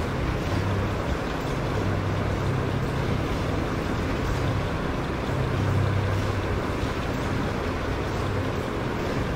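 Steady engine-running sound effect for the cartoon tractor: a low hum over a constant noisy rumble, swelling slightly about six seconds in.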